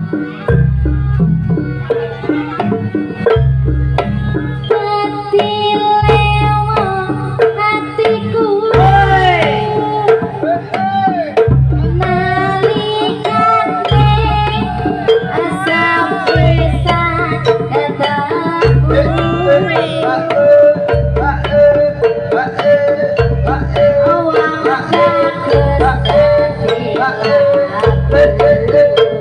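Live jaranan ensemble music: a steady low drum beat pulsing about every one and a half seconds, with hand drumming and a wavering, bending melody line over it.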